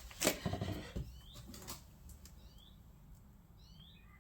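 A few knocks and clicks of handling, the loudest just after the start, then small birds chirping in short falling calls, more often toward the end.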